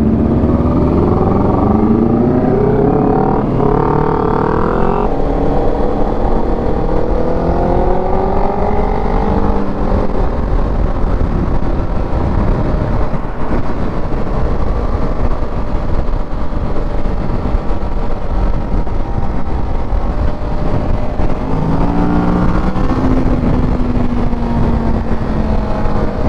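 Kawasaki Ninja 650 parallel-twin motorcycle pulling away and accelerating. Its engine note climbs, drops at a gear change about five seconds in, and climbs again. The engine then settles into steady cruising under wind and road noise, and picks up again near the end.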